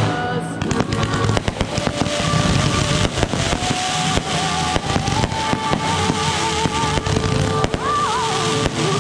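Consumer firework cake firing a rapid, continuous barrage of shots and crackles as it sends up fans of comets. Background music with a wavering held melody plays underneath.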